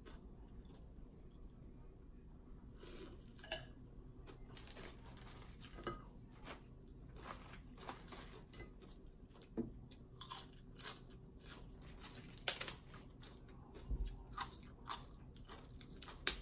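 A person eating close to the microphone: quiet chewing with irregular short smacks, crunches and clicks.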